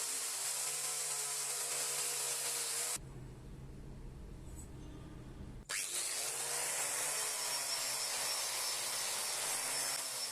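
A power tool working material with a steady grinding hiss. A little under a third of the way in it breaks off abruptly into a low rumble; after a click a few seconds later, the tool starts again, its pitch rising as it spins up, and it runs on steadily.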